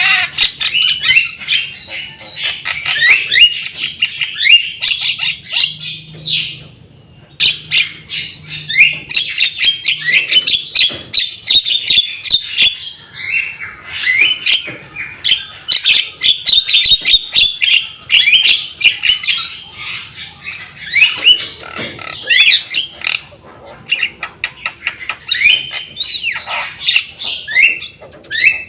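Javan myna singing in a fast, continuous stream of short squeaky whistles and harsh chatter, with one brief pause about seven seconds in.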